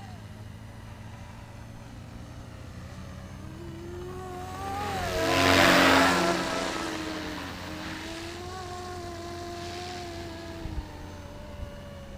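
Radio-controlled 470-size Cobra scale helicopter in flight: a steady rotor and motor whine that swells to its loudest about halfway through as the helicopter comes close, then fades back, its pitch wavering up and down.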